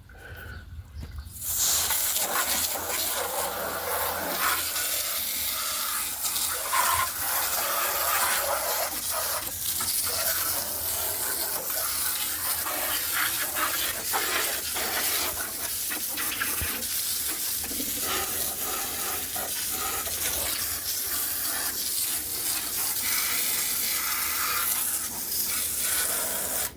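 Water spraying from a hose onto a flood-fouled lawn mower, washing the dirt off it. The spray starts about a second and a half in, runs steadily with its hiss shifting as it strikes different parts, and stops suddenly at the end.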